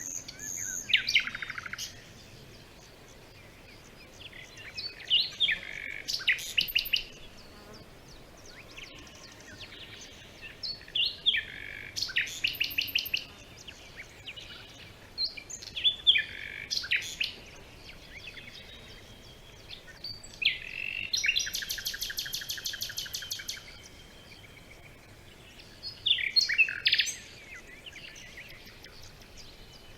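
Birds singing: short, varied high-pitched phrases come every four to six seconds. Past the middle there is a fast, even trill lasting about two and a half seconds.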